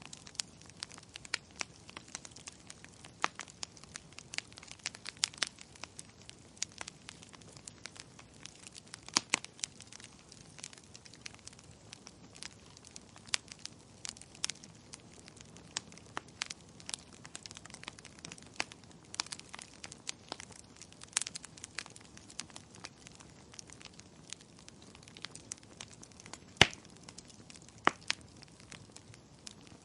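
Wood fire crackling in a fireplace: irregular sharp pops and snaps over a soft hiss, with the loudest snaps near the end.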